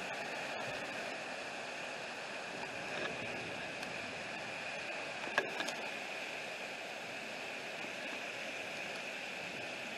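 Heavy storm rain falling steadily, an even hiss, with a single sharp tick about halfway through.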